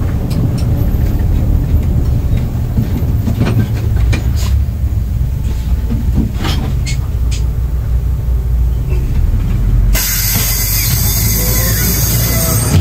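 Subway train running: a steady low rumble with scattered clicks of the wheels on the track. About ten seconds in the sound changes to a loud hiss.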